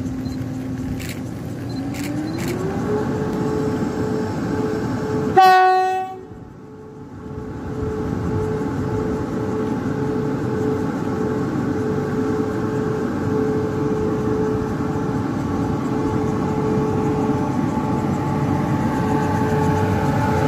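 Taiwan Railways Tze-Chiang express pulling out of the station: a steady rumble with an electric whine that rises in pitch, then holds steady as the train runs on. About five seconds in, the train horn sounds one short, loud blast.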